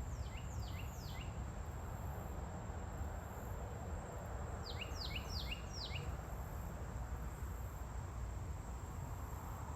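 A bird calling in two quick runs of four or five sharp, falling 'sweet' notes, one near the start and one about five seconds in. Behind it are a steady high insect whine and a low steady rumble.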